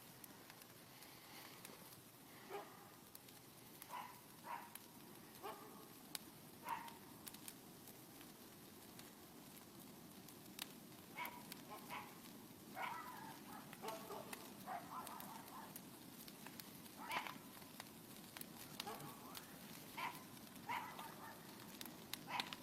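Faint bonfire crackling, with thin scattered snaps, under a scatter of short, faint calls.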